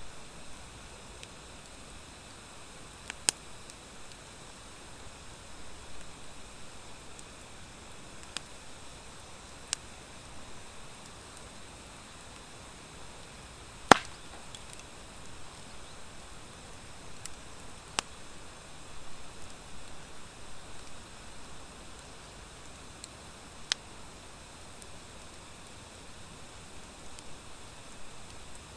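Wood fire of driftwood and dry hardwood burning with a soft steady hiss, broken by a handful of sharp crackling pops at irregular intervals, the loudest about halfway through.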